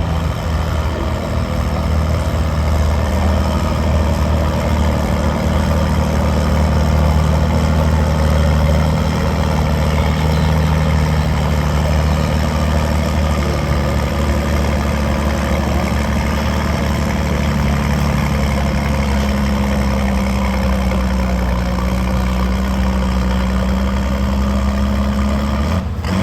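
Massey-Harris tractor's engine running hard and steadily as it pulls the sled, its pitch wavering and rising somewhat past the middle.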